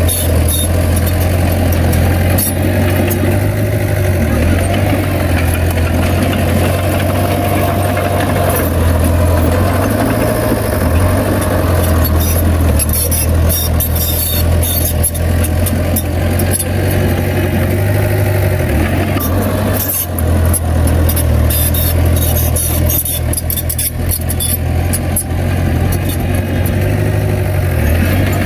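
Komatsu bulldozer's diesel engine running steadily, its low drone rising and dipping slightly as the load changes, with scattered metallic clicks and knocks over it.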